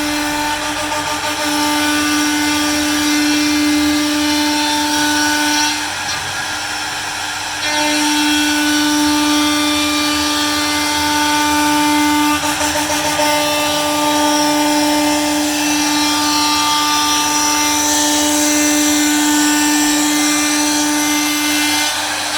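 CNC router spindle running with a steady whine as it cuts. The whine drops away about six seconds in and comes back a second and a half later.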